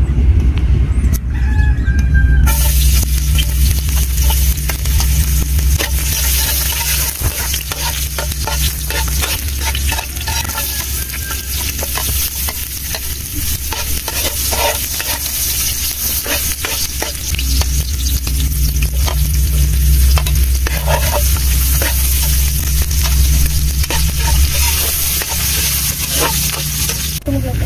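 Garlic, onion and ginger sizzling in hot oil in a large aluminium wok, the sizzle starting a couple of seconds in, while a metal spatula stirs them with frequent scraping clicks against the pan. A steady low rumble runs underneath.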